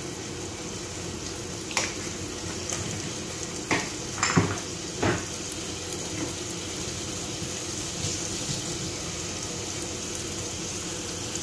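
Onions and turmeric frying in oil in a cooking pot, a steady sizzle, with a few short clattering knocks in the first half.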